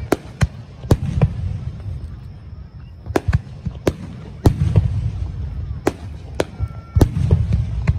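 Fireworks display: aerial shells bursting in quick, irregular succession, about a dozen sharp bangs over a continuous low rumble of booms.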